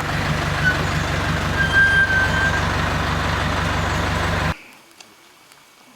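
A vehicle engine running steadily with a low, even pulse, a thin whistle over it about two seconds in; the sound cuts off abruptly a little past four seconds.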